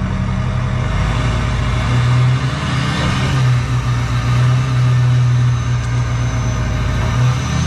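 Tow vehicle's engine running at low revs while it backs up to the trailer, its note rising a little about two seconds in, holding steady, then dropping back near the end.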